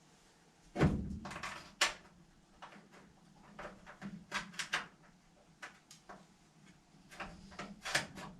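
Knocks and clicks of equipment parts being handled. A heavy knock comes about a second in, a sharp click follows a second later, and scattered lighter clicks and rattles come later.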